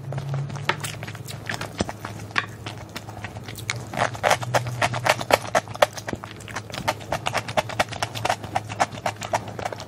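Close-miked chewing of a mouthful of braised chicken and rice, lips closed: a fast, irregular run of wet mouth clicks and squelches that grows busier about four seconds in.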